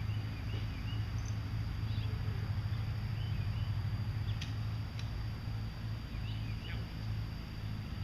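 A steady low hum with small birds chirping now and then over it, and a couple of faint ticks about halfway through.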